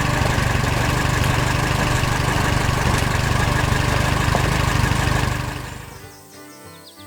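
Tractor engine idling with a steady, fast low throb, fading out about five to six seconds in.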